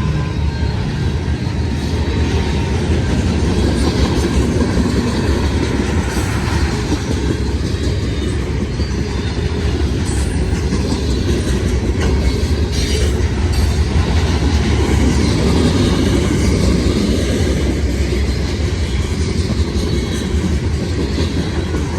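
Cars of a mixed freight train rolling past at close range, a steady heavy rumble with wheels clicking over the rail joints.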